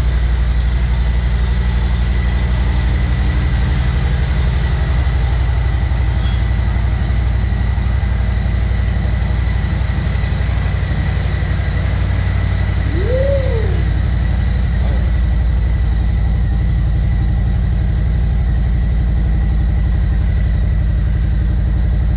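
Harley-Davidson Street Glide Special's V-twin engine idling steadily with an even, low, pulsing exhaust rumble.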